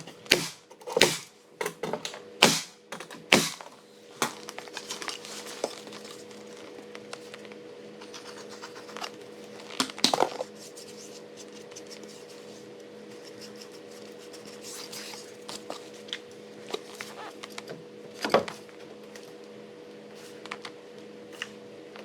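Nail gun shooting about six nails in quick succession, roughly two a second, tacking a pine shiplap board in place. Then a steady machine hum sets in, with two more nail shots around ten and eighteen seconds in.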